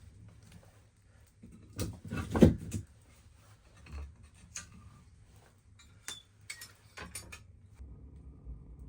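Scattered knocks and clinks of objects being handled, with the loudest cluster about two seconds in.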